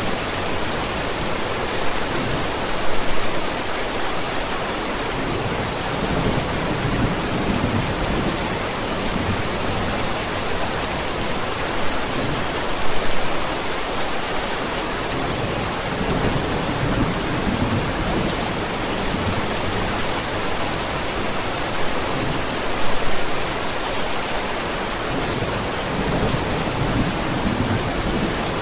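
Steady heavy rain with low rolls of thunder. Brief louder swells come about every ten seconds.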